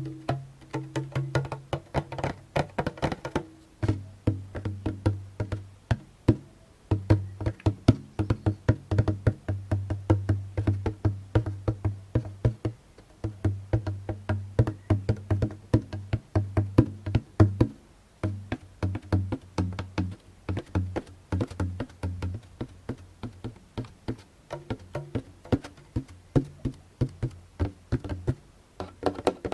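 Djembe tapped and struck with the hands: quick, irregular hits, several a second, with the drum's low ringing tone sounding under much of the playing.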